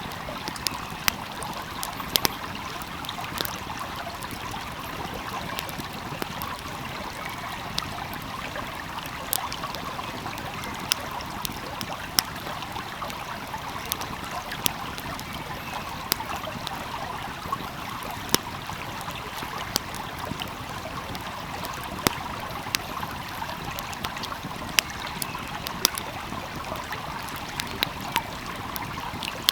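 Steady rush of a flowing stream, with a wood fire crackling over it in sharp, irregular pops every second or so.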